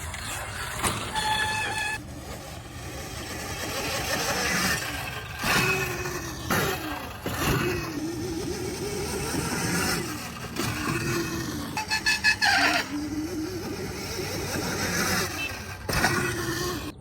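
Electric dirt bike being ridden: a motor whine rises and falls with the throttle over a steady rushing noise, with several sharp knocks along the way.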